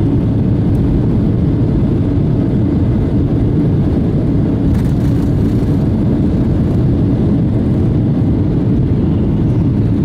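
Steady, heavy jet engine and airflow noise inside the passenger cabin of a Boeing 757-200 on departure.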